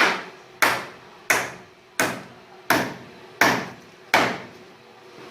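Hammer blows on wood in carpentry work: seven even strikes about 0.7 seconds apart, each ringing out briefly.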